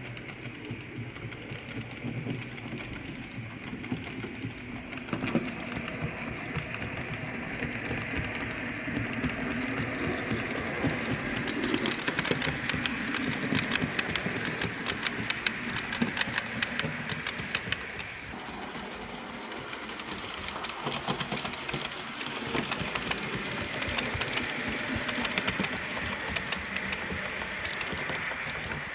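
Model train running on the layout: a steady small-motor whirr and rattle of wheels on track, louder in the middle with a fast run of clicks from about 11 to 18 seconds in, then easing off.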